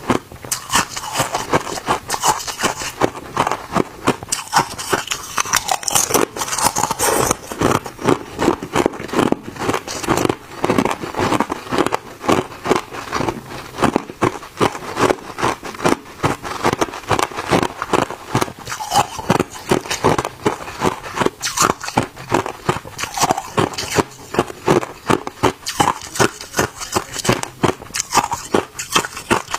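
Hard ice being bitten and chewed, a steady run of sharp, crackling crunches at about two to three a second.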